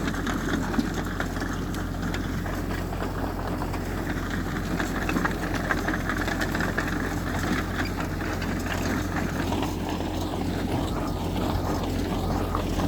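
Heavy diesel engine of earthmoving machinery running steadily, with a low hum and rattling clatter.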